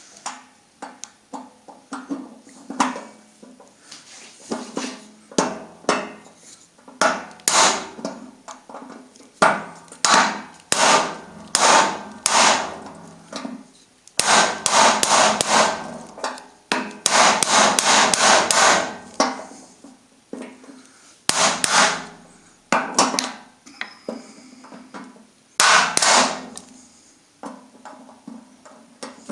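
Hammer tapping a small chisel against a damaged, seized screw to drive it round, in irregular strikes with two longer runs of rapid blows near the middle.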